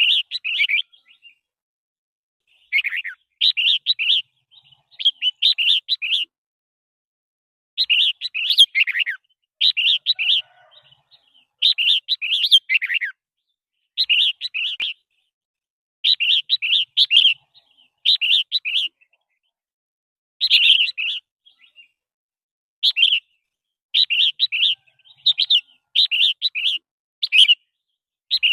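Red-whiskered bulbul singing: short warbled phrases of about a second each, repeated over and over with brief pauses between them.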